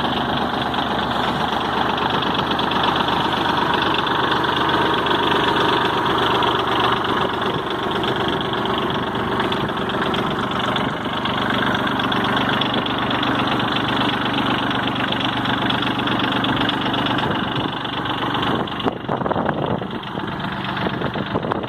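New Holland tractor engine running steadily at idle, turning rougher and more uneven near the end.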